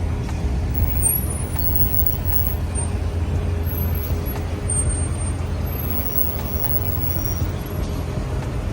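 Steady low rumble of outdoor background noise, with no speech.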